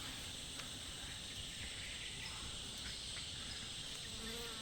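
Steady, high-pitched chorus of forest insects, an unbroken shrill drone.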